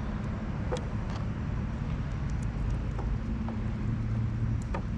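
A steady low engine hum from a motor running out of sight, with a few faint clicks over it.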